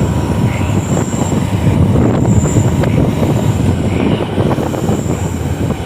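Steady rumble of wind and road noise on a moving motorbike, with a thin high whine that swells and fades a few times.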